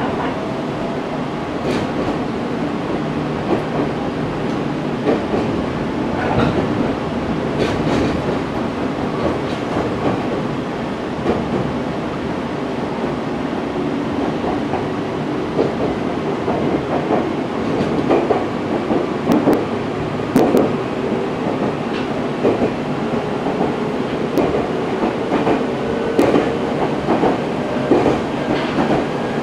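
Inside a moving Meitetsu 6000-series electric train: steady running noise of wheels on rail, with irregular clicks from rail joints and a faint whine that rises slowly in pitch over the second half.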